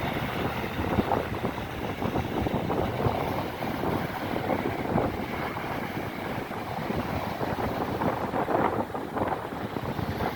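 Wind blowing across the microphone: an uneven, gusting noise with no clear tone.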